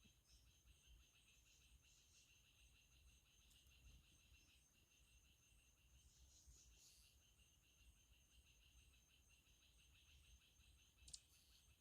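Faint, steady trilling of insects such as crickets, with a short sharp high chirp near the end.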